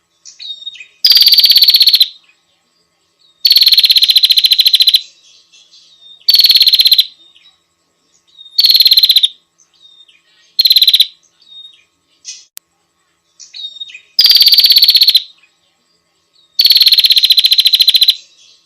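Female prenjak lure call: seven loud, buzzy, fast-pulsed trills of about a second each, with soft short chirps in the gaps between them.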